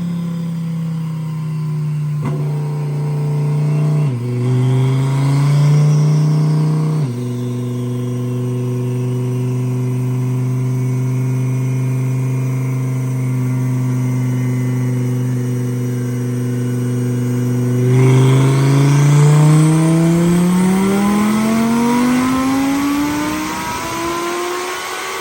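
Twin-turbo Lamborghini Huracán V10 running on a dyno, holding steady revs with a couple of abrupt pitch steps. Over the last several seconds the revs climb in one smooth, continuous pull, then drop off at the end.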